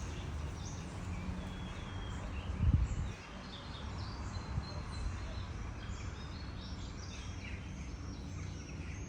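Several small birds chirping and singing, short high calls overlapping through the whole stretch, over a steady low rumble. A dull thump stands out about three seconds in.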